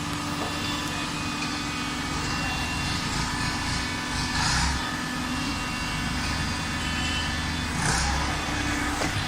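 Automatic waste-paper baling machine running: a steady machine hum holding several steady tones, with two brief louder surges of hiss and rumble, about halfway through and near the end.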